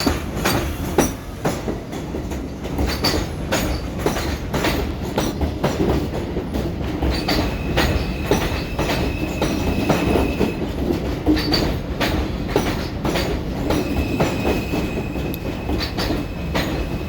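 R160B subway train pulling into a terminal station: the wheels clatter over the rail joints in a steady stream of clicks over a low rumble. A thin, high, steady squeal comes in about seven seconds in and again near the end.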